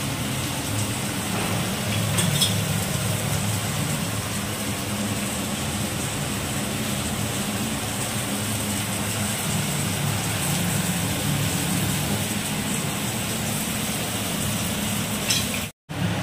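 Chicken frying in a pan: a steady sizzle with a low hum under it and a few light clicks. The sound cuts out for a moment near the end.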